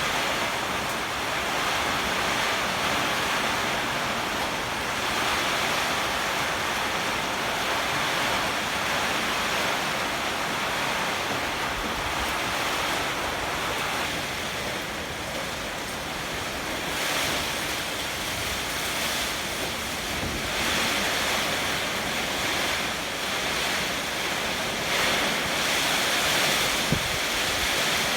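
Heavy typhoon rain and strong gusting wind, a steady rushing that swells and eases with the gusts, with wind buffeting the microphone. A single small knock comes near the end.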